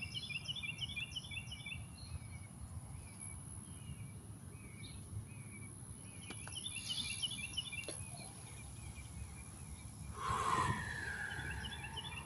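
Outdoor ambience of songbirds: a quick chirping phrase repeated several times, over a steady high insect-like hiss and a low rumble. About ten seconds in, a louder call drops in pitch and then levels off.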